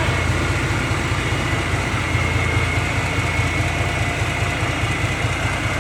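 Hino H07D six-cylinder diesel engine of a self-propelled forage corn harvester running steadily, a deep even drone with a faint high whine above it.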